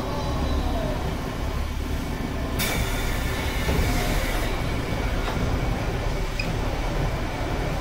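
Diesel railcar running along the line, a steady low rumble with engine drone beneath. About two and a half seconds in, a hiss starts and lasts roughly two seconds.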